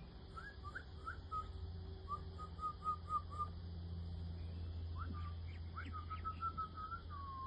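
Birds calling in runs of short, clear whistled notes, about four a second, with a pause in the middle, over faint high chirps.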